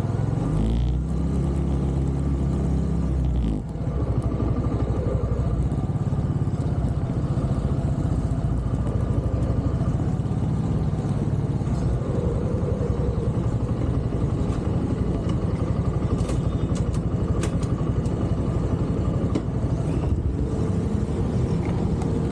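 A TVS Star 150 motorbike's single-cylinder engine running steadily at low speed. Its sound changes about three and a half seconds in and then holds steady.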